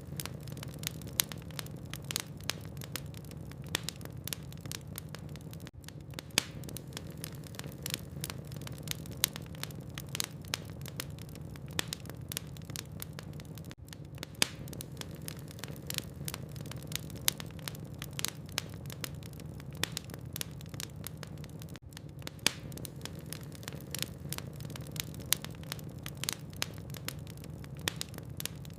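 Logs burning in a fireplace, crackling: irregular sharp pops and snaps over a steady low hum.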